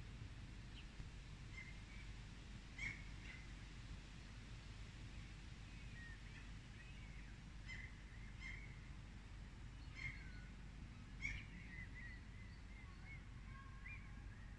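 Faint outdoor ambience: small birds giving scattered short chirps and calls, a few of them a little louder, over a steady low background noise.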